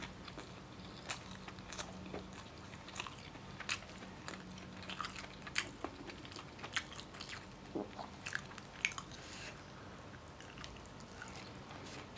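A person chewing a mouthful of rice and chicken close to the microphone, with irregular wet mouth clicks and smacks.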